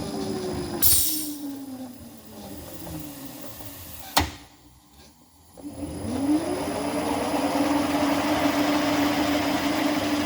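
The electric motor of a valve seat and guide machine winds down with a falling hum after a short hiss about a second in. A sharp click comes around four seconds, then a brief lull, and the motor spins back up with a rising whine and runs steadily with a hiss.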